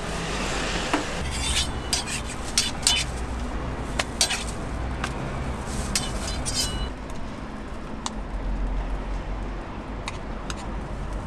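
Metal utensils and cookware clinking and tapping at a street crepe stall while crepes are made. The sharp clinks come thick in the first seven seconds and sparser after, over a low steady hum.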